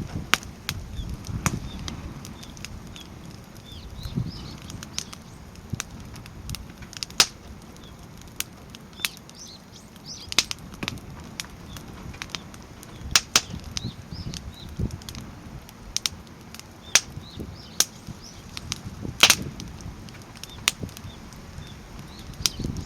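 Firewood burning in a Snow Peak fire pit, stacked in a log-cabin (igeta) crib, crackling with irregular sharp pops a few times a second over a low rumble. One pop near the end is louder than the rest.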